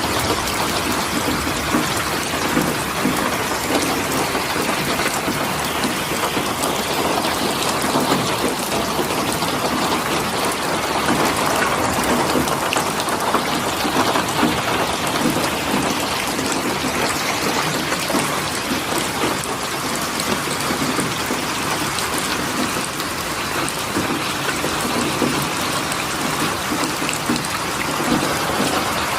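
Steady, dense rain pattering down without let-up.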